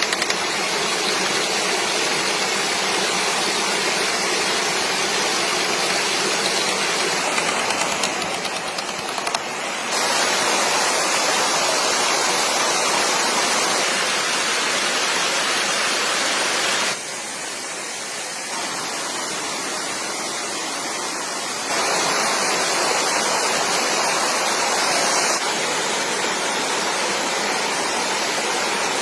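Stream water rushing: a steady, even rush whose loudness jumps up or down abruptly several times.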